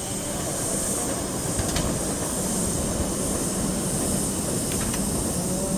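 Steam locomotive C61 2 hissing steam steadily, with a steady low hum underneath and a couple of faint clicks.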